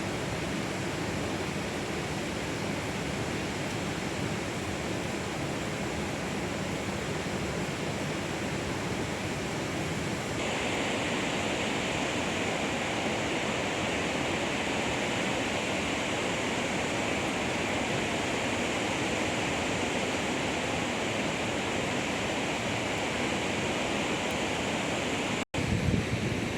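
Steady drizzling rain, an even hiss. About ten seconds in it turns abruptly brighter and a little louder, and near the end a brief gap is followed by a few low bumps.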